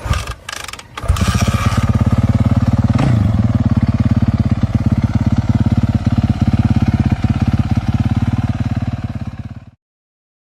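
Motocross bike engine starting: a few rough bursts, then it catches about a second in and runs with a fast, even beat. It rises briefly near three seconds and cuts off suddenly near the end.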